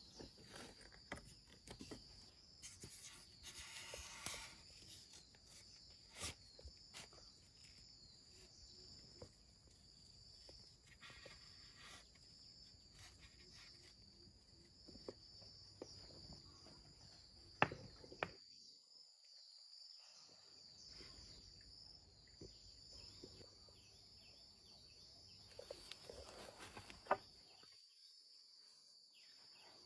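Forest insects chirping in a steady high drone, with scattered faint knocks and rustles and a few sharper clicks. The sound drops out twice for about two seconds.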